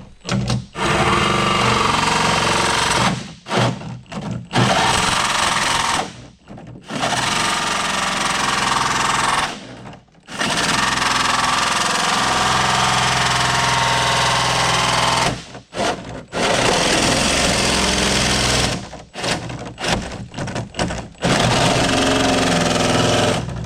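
Turbocharged S550 Ford Mustang engine being cranked over on its starter in about six separate bursts of a few seconds each, with a rapid mechanical chugging, not yet starting on its first start-up.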